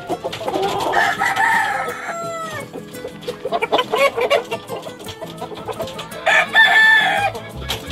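Gamefowl roosters crowing twice, once about a second in with the call trailing down in pitch, and again louder near the end, with clucking in between.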